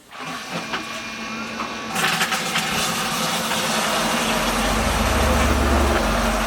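Small electric pump switching on about two seconds in and running steadily with a constant hum, circulating vinegar through a Rinnai tankless water heater for a descaling flush.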